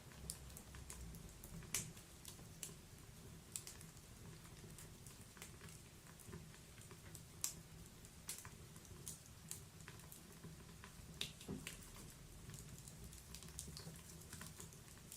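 Log fire in a wood-burning fireplace crackling quietly: irregular sharp pops and snaps, a few a second, over a low steady rumble.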